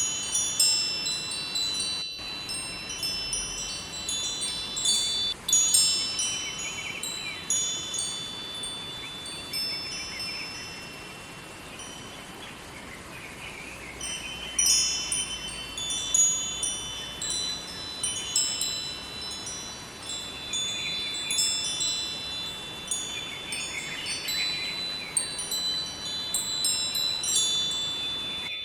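Wind chimes ringing, with high, overlapping tones struck in irregular clusters and a quieter lull about ten to fourteen seconds in. A steady rushing of river water runs faintly underneath.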